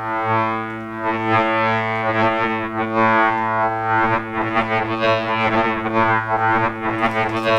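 Eurorack synthesizer drone from a Make Noise XPO oscillator through a QPAS filter, held on one steady pitch. Its timbre shifts rhythmically as a slightly detuned STO oscillator drifts in and out of phase with it.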